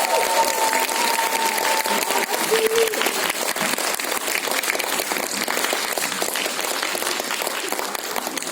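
Audience applauding, a dense steady clatter of many hands. A held note of the closing music carries over into the first couple of seconds.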